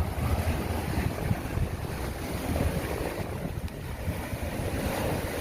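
Wind buffeting the microphone over the sound of waves breaking on the beach, a steady rough rush strongest in the low end.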